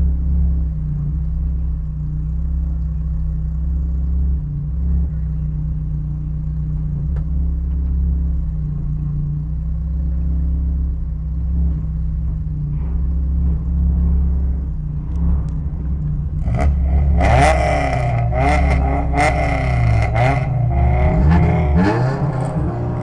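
Race car engine heard from the cockpit: a steady low drone, then, about two-thirds of the way in, the engine revs hard, its pitch climbing and dropping again and again as the car accelerates and shifts.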